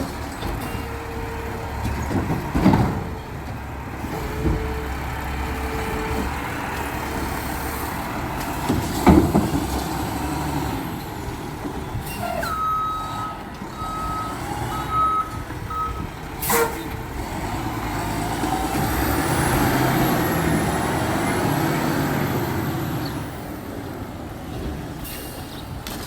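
Garbage truck's diesel engine running, with a few sharp bangs and clangs. A short run of backup beeps comes about halfway through, then the engine swells in a longer surge of noise.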